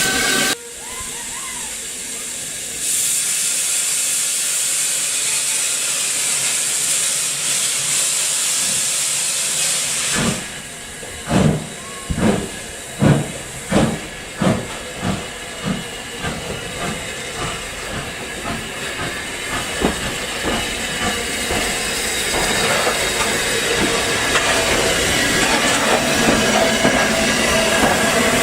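Steam locomotive hissing loudly as it blows off steam, then starting away: heavy exhaust chuffs begin about ten seconds in, slow at first and quickening, and give way to steady running.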